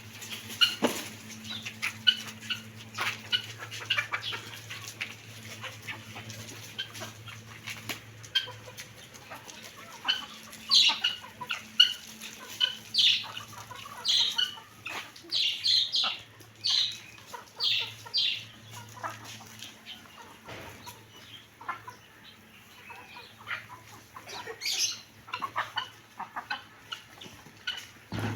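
Domestic birds being fed, giving many short calls one after another, busiest from about ten to nineteen seconds in, over a faint steady low hum.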